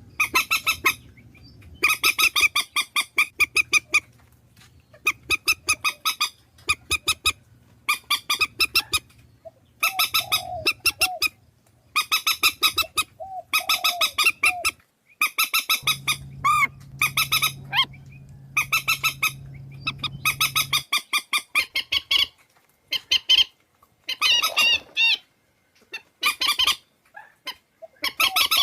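Swamphen calling: repeated bursts of rapid nasal cackling notes, each about a second long, separated by short pauses.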